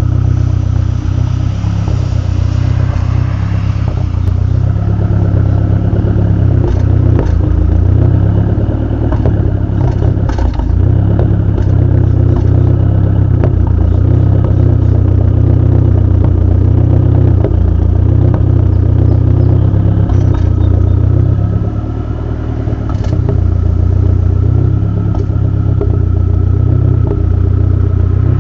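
Dodge SRT-4's turbocharged 2.4-litre four-cylinder engine idling unevenly with a misfire, its note swelling and sagging in a repeating pattern, with occasional sharp clicks. The level dips briefly about three quarters of the way through.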